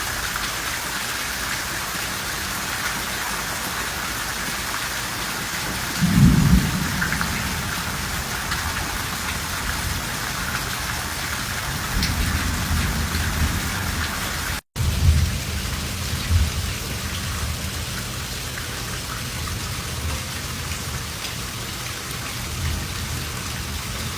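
Steady rain falling, with low rolls of thunder: a loud one about six seconds in, and more around twelve seconds and just after fifteen. The sound cuts out for an instant partway through.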